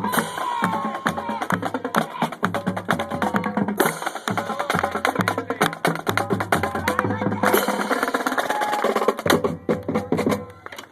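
High school marching band playing, with rapid drum and percussion hits over brass and a moving bass line.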